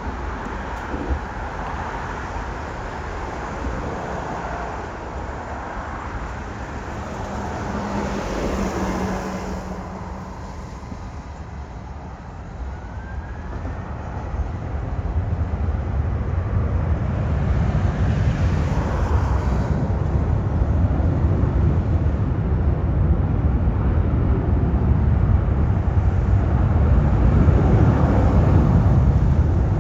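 Outdoor airport ambience: a steady mix of distant engine and traffic noise, with a deep rumble building from about halfway through and staying loud.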